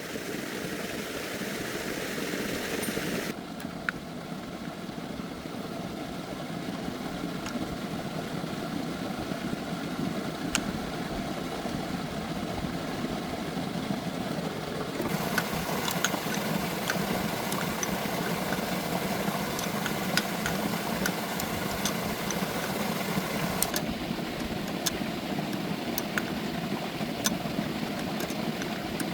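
An engine running steadily, with scattered sharp metallic clicks and ticks; the sound shifts abruptly a few times.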